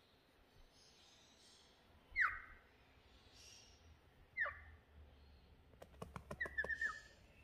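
Cockatiel calling: two sharp calls that sweep steeply down in pitch about two seconds apart, then a few clicks and a quick run of short chirps near the end.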